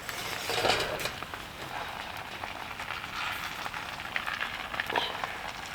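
A frying pan sizzling over a wood fire, with fine crackling throughout, as a pizza cooks in the pan. There is a brief louder scrape or rustle a little over half a second in.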